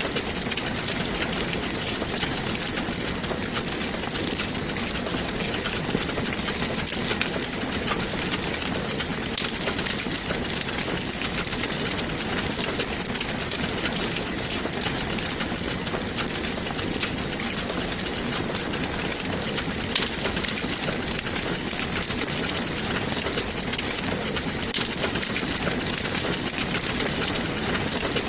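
Wood fire burning in a fireplace: steady crackling, with dense small pops over a continuous hiss.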